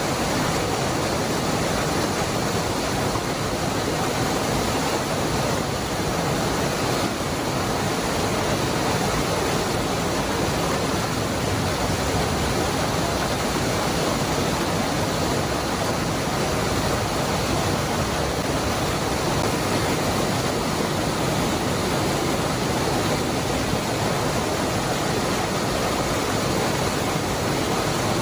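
Cascada del Hervidero waterfall, water falling and rushing in a steady, unbroken roar of noise.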